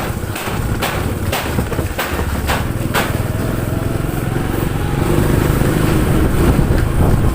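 Motorcycle running, with sharp regular clicks about twice a second during the first three seconds, then a steady running sound.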